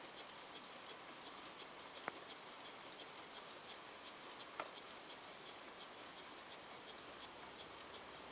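Model beam engine running on compressed air at less than 2 psi, making a light, even ticking about three times a second over a faint hiss, with a couple of sharper clicks. No knocking is heard: the bearings have been realigned and tightened and it runs smoothly.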